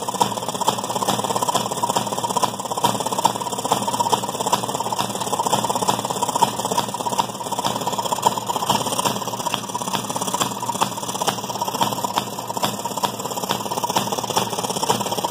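A 1929 Maytag gas wringer washing machine running: its single-cylinder two-stroke gas engine firing steadily at a rapid, even rate, with mechanical clatter from the machine.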